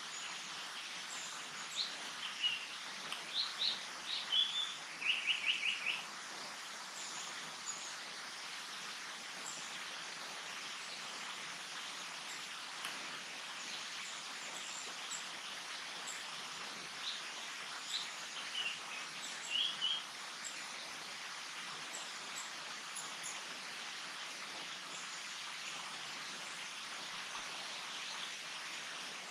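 Wild songbirds calling in woodland. Short high notes and phrases come in two clusters, one in the first six seconds that ends in a quick run of repeated notes, and another around twenty seconds in. A steady background hiss runs under them.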